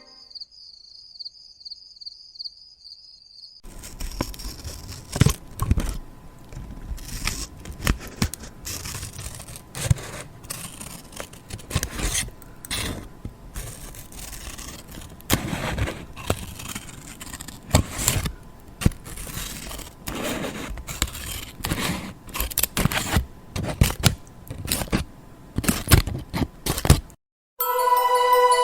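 Close-up irregular scraping and crackling, with many sharp clicks, that cuts off abruptly near the end. It is preceded by a few seconds of a faint, wavering high tone.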